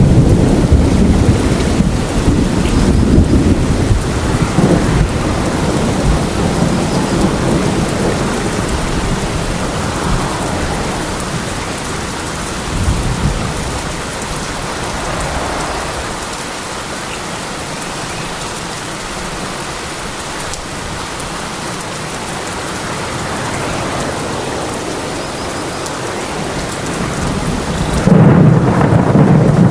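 Rain falling steadily with thunder: a low rumble dies away over the first few seconds, and a loud new peal of thunder breaks in suddenly near the end.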